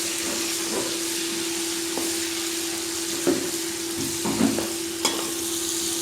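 Chopped onions sizzling in hot oil in a pot as they are stirred to brown them, with a few short knocks of stirring about halfway through.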